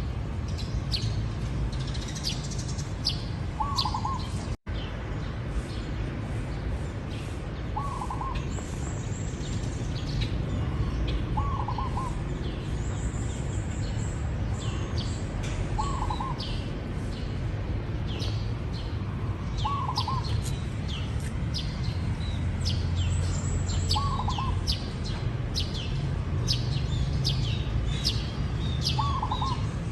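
Zebra dove cooing: a short call repeated about every four seconds. Many quick high chirps from other small birds sound throughout, over a steady low background rumble.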